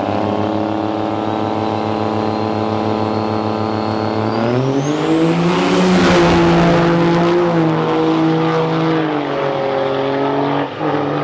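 Turbo-diesel pickup truck engine held at steady revs, then climbing in pitch about four seconds in with a high turbo whine rising sharply above it as the truck launches down the drag strip; the engine note then levels off and rises again near the end.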